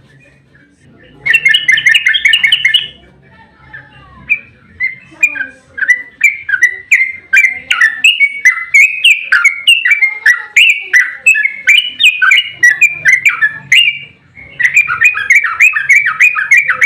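Yellow-vented bulbul (trucukan) singing. A fast, chattering trill about a second in is followed by a long run of loud, bubbly, warbled notes at roughly two or three a second. Another fast trill comes near the end.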